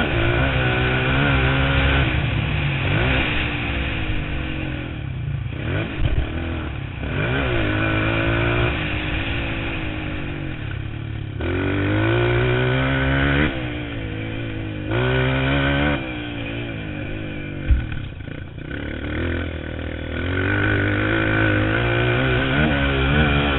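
Motocross motorcycle engine revving hard and dropping back again and again as the throttle opens and closes, its pitch climbing through each run. There is a short sharp knock about eighteen seconds in.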